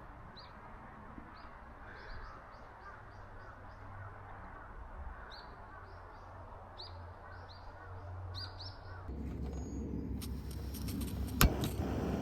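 Small birds chirping: short, high calls repeating every fraction of a second over a faint low hum. About nine seconds in, a louder rustling starts, with a sharp click near the end.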